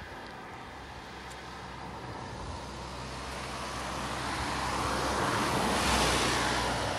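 A motor vehicle passing on the road. Its tyre and engine noise swells, is loudest about six seconds in, then fades away.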